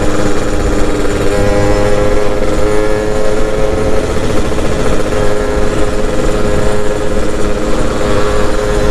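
Yamaha F1ZR's single-cylinder two-stroke engine running under way at steady revs on its stock exhaust; the engine note rises slightly about a second and a half in, then holds.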